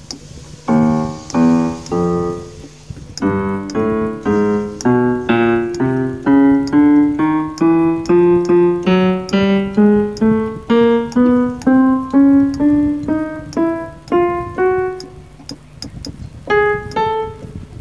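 Roland E-X20 electronic keyboard sounding a piano voice as its keys are played one at a time, climbing upward in single notes at about two a second, to test which keys are faulty. After a short pause near the end, a few more notes follow.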